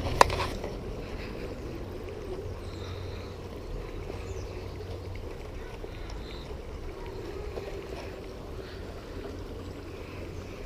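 Creek water running and sloshing as a steady low rush, with one sharp click just after the start.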